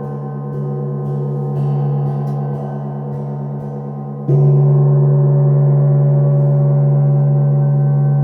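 A gong ringing with long, steady, deep tones that waver slightly. About four seconds in it is struck again, and the ringing jumps louder and sustains.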